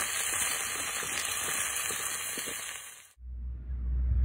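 Food sizzling in hot oil in a metal wok, with light clicks of a spatula stirring. The sizzle fades out about three seconds in and gives way to a low rumble.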